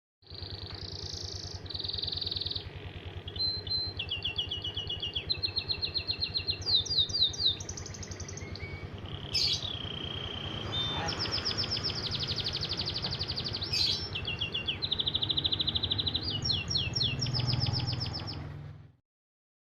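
A songbird singing a long, varied song of fast trills and quick runs of repeated high whistled notes, with a low steady hum under it. It starts abruptly and cuts off near the end.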